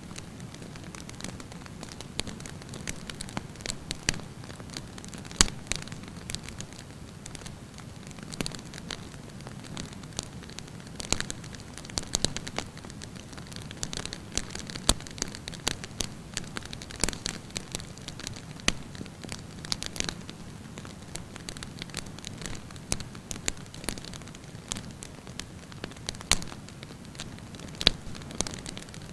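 Wood campfire burning, a steady hiss under frequent irregular crackles and sharp pops of burning wood.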